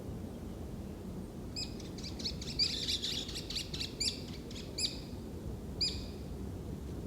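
A small bird chirping: a quick run of short, high chirps, then a few single chirps about a second apart, over a steady low background rush.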